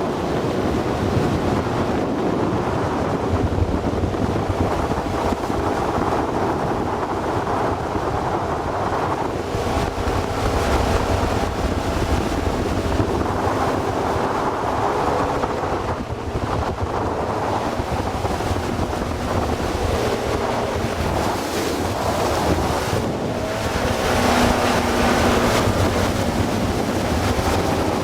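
Progress motorboat underway: its motor running steadily under the rush and splash of water along the hull, with heavy wind buffeting the microphone.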